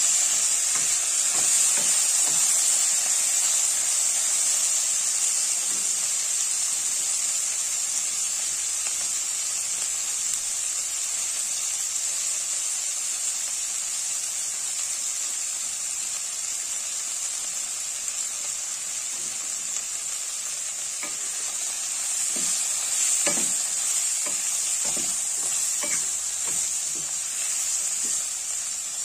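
Dried salt fish, tomatoes, green chillies and onions sizzling steadily in a stainless-steel wok, stirred with a wooden spatula. Scattered scrapes and knocks of the spatula against the pan become more frequent in the last few seconds.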